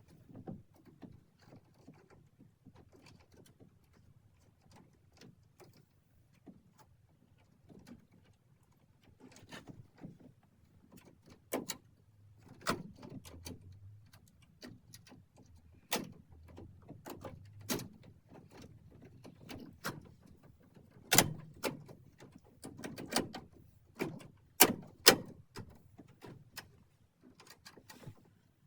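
Irregular plastic clicks and knocks from an air conditioner's plastic front panel being handled and fitted onto the unit. They are sparse at first and grow denser and louder, with the sharpest knocks about three-quarters of the way through.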